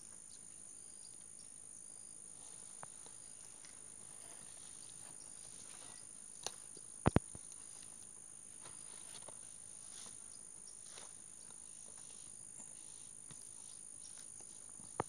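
Steady high-pitched insect chirring, with a few sharp clicks, the loudest a close pair about halfway through.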